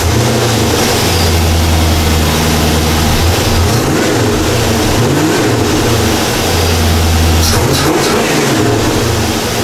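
C4 Corvette small-block V8 running steadily after a fresh start, blipped up in revs briefly twice, about four and eight seconds in. It is running well at about 40 psi fuel pressure.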